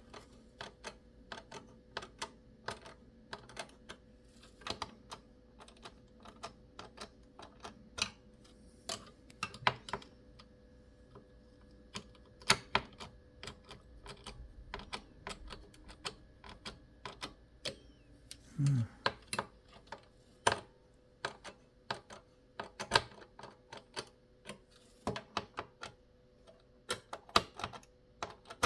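Irregular sharp clicks and taps, a few a second, from small computer parts being handled and fitted by hand, over a faint steady hum.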